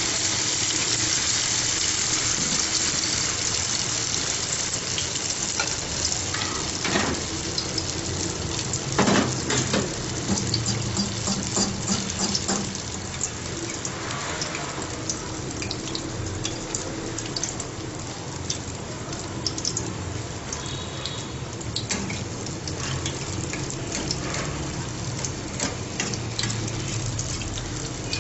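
Malpua batter frying in hot ghee in an aluminium pan: a steady sizzle that is loudest at first and eases off slightly, with a couple of knocks of a metal spoon against the pan.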